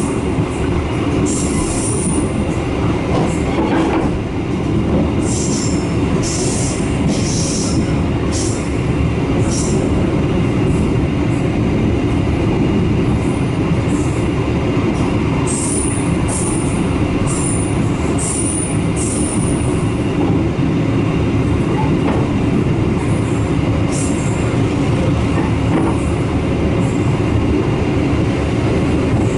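Passenger train running on the line, heard from aboard a coach: a steady loud rumble of wheels on rails, with repeated short high-pitched wheel squeals.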